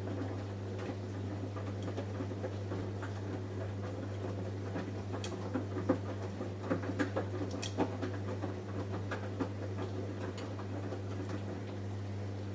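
Samsung Eco Bubble washing machine running a cotton wash: a steady motor hum with an irregular patter of small clicks and knocks as the drum turns the wet laundry, busiest in the middle.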